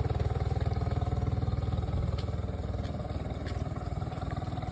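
Engine idling steadily with a fast, even pulse.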